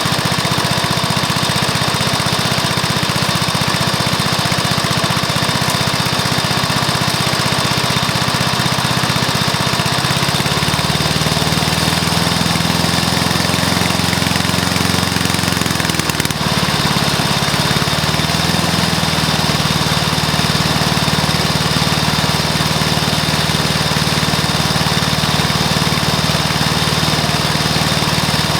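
A Briggs & Stratton lawn mower engine, freshly rebuilt with a new piston, rings and valves, running. About ten seconds in its speed rises, wavers briefly, then settles into a steady run.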